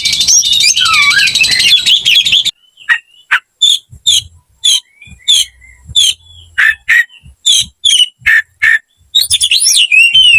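Oriental magpie-robin (kacer) singing: a dense warbling run, then a long series of sharp, separate whistled notes at about two a second, before the rapid warbling song starts again near the end.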